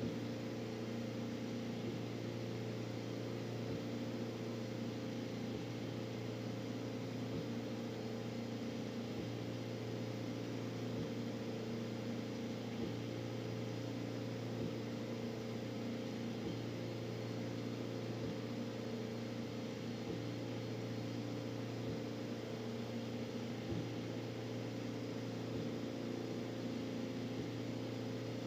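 3D printer printing: stepper motors whine in tones that keep jumping between pitches as the print head changes direction, over the steady hum of the cooling fans, with faint ticks now and then.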